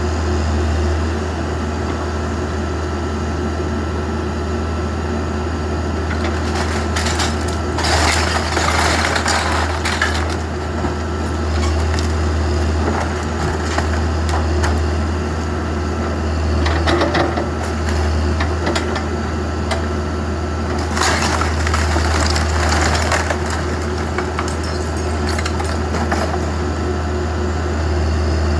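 Backhoe engine running steadily while wooden framing is crunched and broken, with louder bouts of cracking and crashing about eight seconds in, again around seventeen, and at about twenty-one seconds in.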